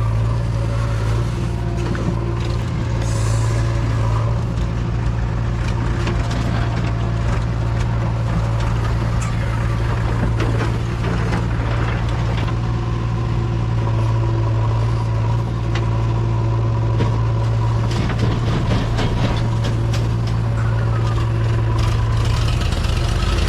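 Backhoe loader's diesel engine running steadily under work, with scattered knocks and rattles from the digging and loading.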